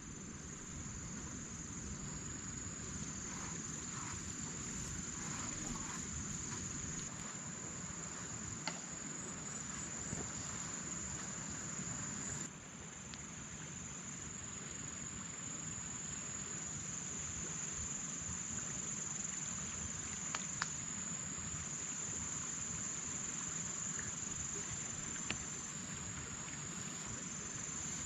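Steady, shrill insect chorus buzzing continuously at a high pitch, with a few faint clicks and taps. The sound drops suddenly about twelve seconds in and then carries on.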